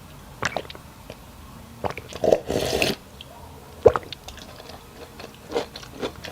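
A person eating close to the microphone: wet chewing and biting with sharp clicks and squelches. About two and a half seconds in, a louder half-second rush of noise stands out.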